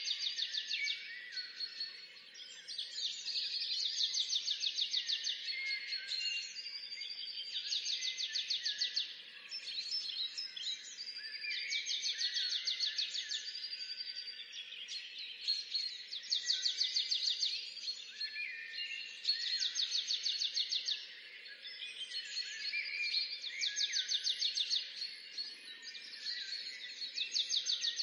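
Songbirds singing: one bird repeats a fast trilled phrase about every four seconds, with other birds chirping between the phrases.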